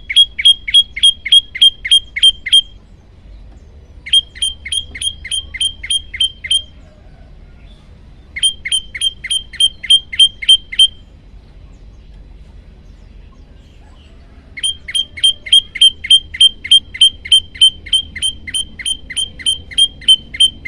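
A prenjak lumut song recording: four bursts of rapid, evenly spaced sharp chip notes at about four a second, each burst a few seconds long with short pauses between, the last one the longest.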